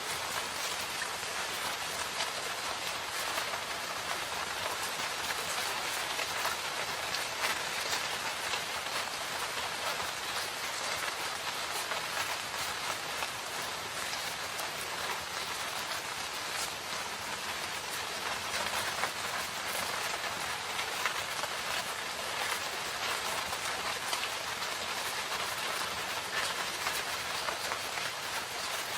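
Steady rain falling in a forest, an even hiss of rain with many individual drops pattering on leaves and surfaces.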